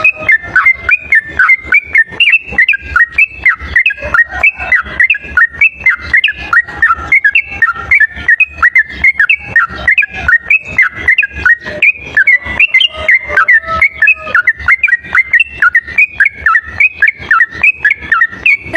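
Sooty-headed bulbul (trucuk) singing its rapid 'ropel' song: a fast, unbroken run of short whistled notes, several a second, played back loud as a bird-trapping lure call.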